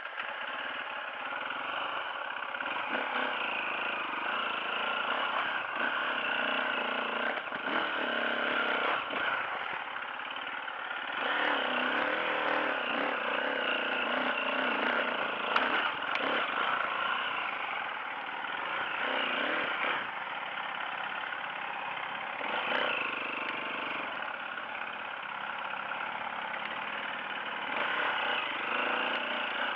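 Off-road dirt bike engine running under load, revving up and down as it climbs rough ground, with a few knocks and clatters from the bike.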